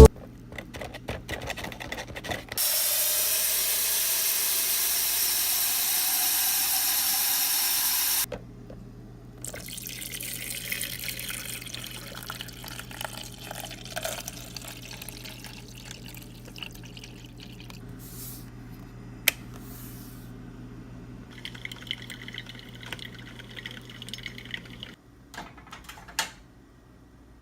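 Water running from a tap into a container for about five seconds, its pitch rising as the container fills. Then quieter clinks and handling noises over a steady low hum.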